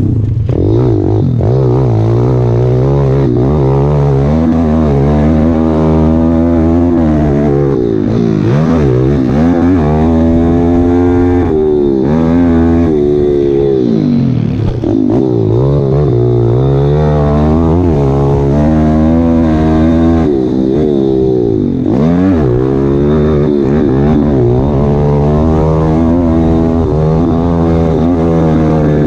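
Dirt bike engine revving hard, its pitch climbing and dropping again and again as the rider works the throttle and gears, with brief drops in the sound when the throttle comes off.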